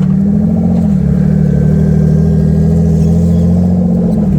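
The drift boat's engine running steadily under way, its pitch dipping briefly about a second in and then holding steady.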